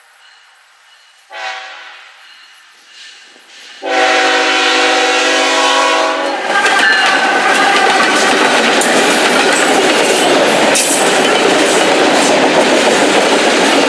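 Train horn sounds a short blast about a second in, then a long loud blast from about four seconds in, followed by the loud rushing and wheel noise of the train passing close by, with a few sharp clicks over the rail joints.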